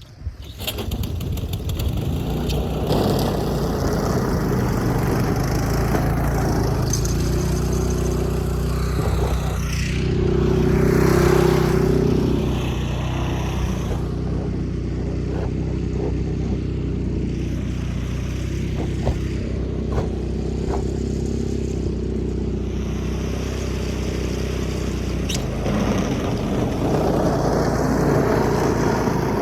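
An engine running steadily, coming up loud about half a second in and swelling briefly near the middle, with scattered clicks and scrapes.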